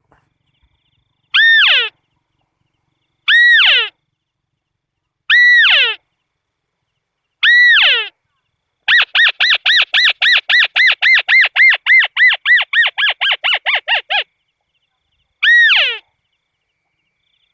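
Calls of a tikusan crake: four single falling calls about two seconds apart, then a fast run of calls at about four a second for some five seconds, then one more single call near the end.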